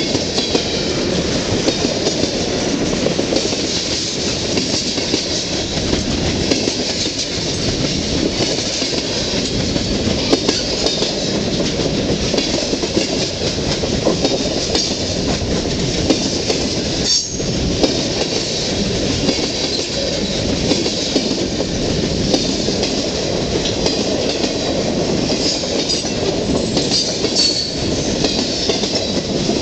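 CN freight train cars rolling past close by: steady rumble and clatter of wheels on the rails.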